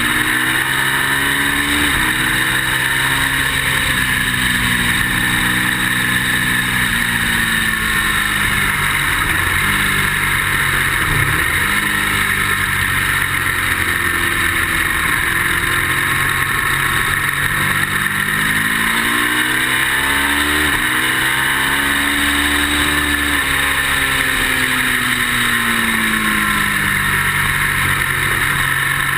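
Ducati motorcycle's V-twin engine at track speed, its pitch repeatedly climbing and then dropping off as it shifts and slows for corners, under heavy wind noise. The owner says the bike is not running well.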